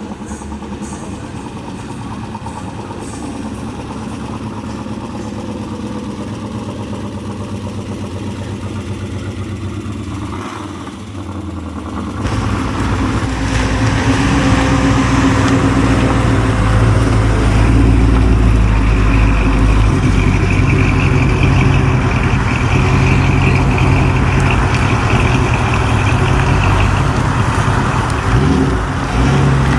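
Car engine running steadily at idle; about twelve seconds in the sound jumps suddenly much louder, into a deep, heavy engine rumble.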